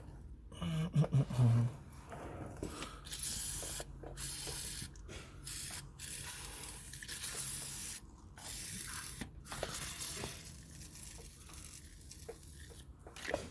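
Aerosol can of WD-40 spraying in a series of hissing bursts with short breaks between them, penetrating oil going onto rusted bolts. A brief low-pitched sound about a second in.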